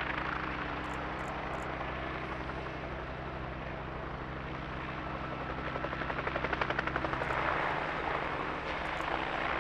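Light helicopter flying past, its rotor blades chopping over a steady engine drone. The chopping grows louder around the middle and fades again near the end.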